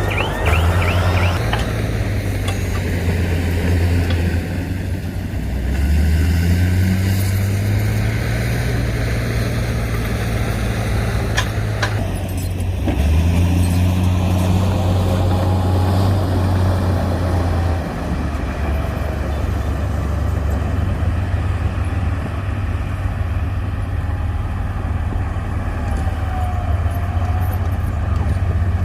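Heavy diesel engine of earthmoving machinery running under load, a steady low drone that revs up twice, about five seconds in and again around thirteen seconds, then settles back near eighteen seconds.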